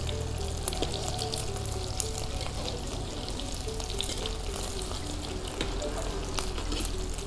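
Background music with a simple melody of short notes, over the crackling sizzle of food frying and a steady low hum that stops near the end.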